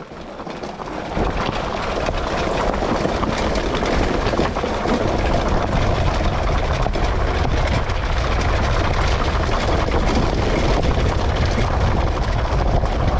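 Two-stroke dirt bike kitted to 80cc, ridden off-road with its engine running, under steady rushing wind noise. The sound builds over the first second or two, then holds.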